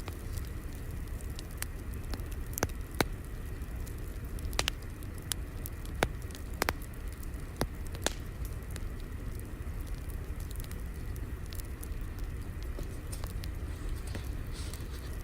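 Wood fire crackling: a steady low rumble of flames with irregular sharp pops and snaps, more frequent in the first half.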